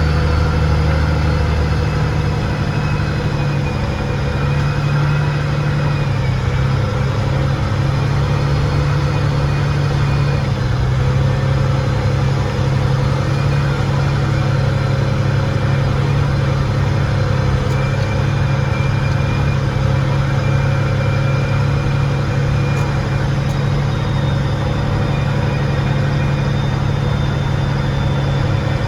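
A heavy engine running steadily at an even speed, with faint higher whines above it that drift a little in pitch.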